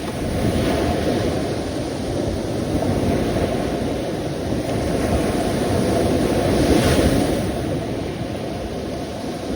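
Sea waves washing in, the surf swelling and easing every few seconds, with the biggest surge about two-thirds of the way in.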